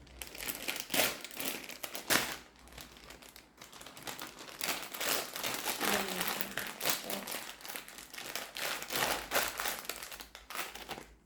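Small collectible-figure packet being opened by hand, its wrapper crinkling and crackling in quick irregular bursts.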